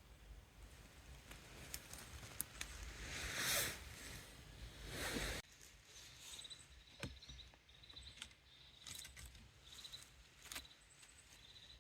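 Faint rustling and crunching, swelling twice, with a few sharp clicks and faint short high chirps in the second half.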